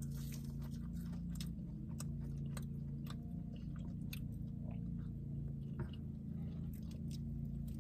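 People chewing food in their mouths, with scattered soft clicks of mouth sounds, over a steady low hum.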